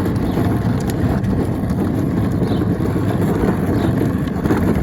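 Wind buffeting a handheld phone's microphone while walking: a steady low rumble with no clear rise or fall.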